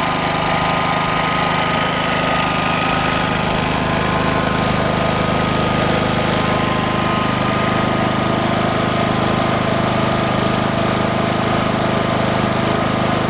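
Predator 5000 inverter generator running steadily, its engine note shifting slightly about four seconds in.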